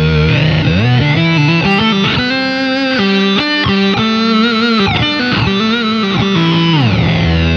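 Electric guitar played through an EarthQuaker Devices Data Corrupter PLL synth/harmonizer pedal: a fuzzy square-wave synth tone with octave and fifth voices, its pitch sliding from note to note.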